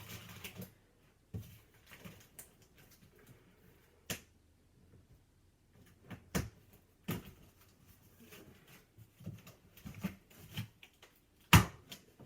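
Large cardboard shipping box being handled and worked open: scattered taps, knocks and rustles of cardboard, with one sharp knock near the end.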